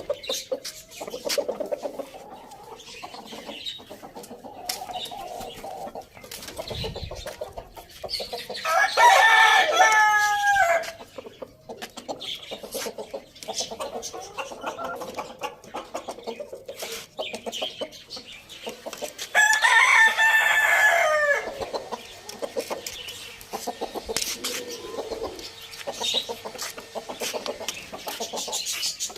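Chickens clucking, with a rooster crowing twice, each crow about two seconds long: the first about nine seconds in, the second about twenty seconds in.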